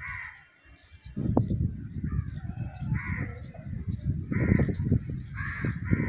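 Several short, harsh bird calls, one at the start and a quick run of them from about three seconds in, over a loud low rumbling noise.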